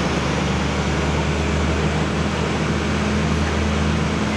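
Farm tractor engine running hard at a steady pitch under load, pulling the weight sled down the track.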